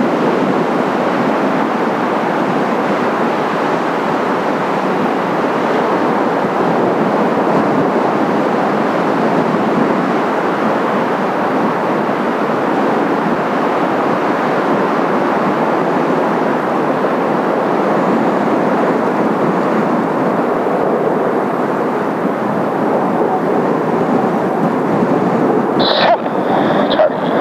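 Steady jet roar from the Blue Impulse formation's Kawasaki T-4 jets in flight, mixed with strong wind and surf. A brief high tone sounds near the end.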